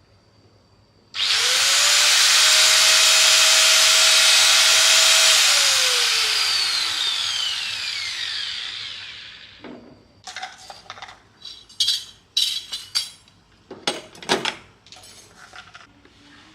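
A small electric power-tool motor is switched on about a second in. It spins up at once, runs steadily for about four seconds, then is switched off and winds down over several seconds. A few clicks and knocks follow as it is handled.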